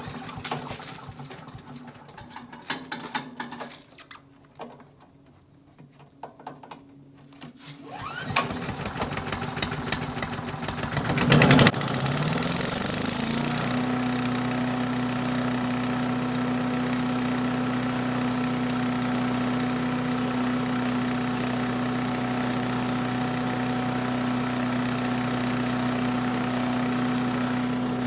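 Small gas engine of an Earthquake 212 chipper shredder being started: a few faint clicks and knocks, then it is cranked about eight seconds in, catches with a loud burst about twelve seconds in, rises in speed, and settles into steady running.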